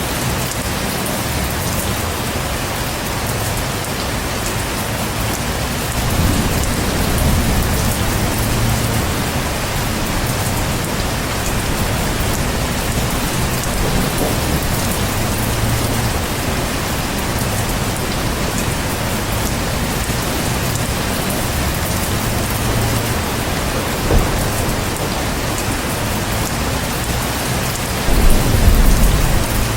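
Heavy rain falling steadily, with thunder rumbling low at times and a louder, closer thunder rumble near the end.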